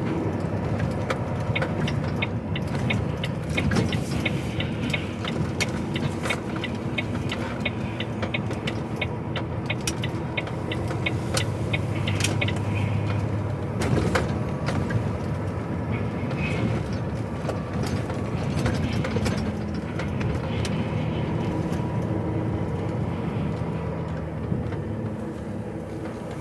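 Inside the cab of a moving HGV lorry: the diesel engine runs steadily with road noise. For about the first half, a run of rapid, even clicks sounds over it.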